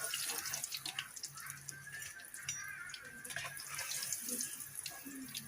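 Water running from a tap into a sink, with small clicks and clinks through it.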